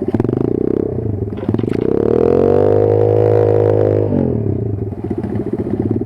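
Kayo 140 pit bike's single-cylinder four-stroke engine at idle, revved up about a second and a half in and held high for about two seconds, then dropping sharply back to idle.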